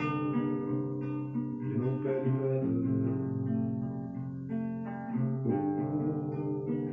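Acoustic guitar strummed and left ringing, chord after chord, with no voice: the instrumental close of the song.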